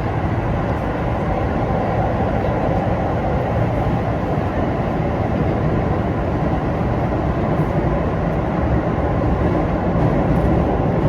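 Keio 9000 series trailer car running on the line, heard from inside the cabin: a steady wheel-on-rail rumble with no traction-motor sound, as this car (SaHa) carries no motors.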